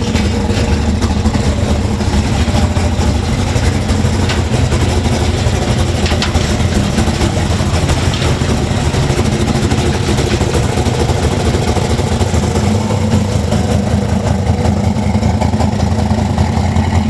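Turbocharged truck engine idling loudly and steadily, with no revving.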